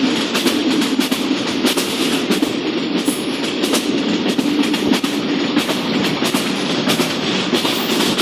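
Passenger train running along the track: a steady rumble of wheels on rail with frequent sharp clicks and clatter from the wheels and joints.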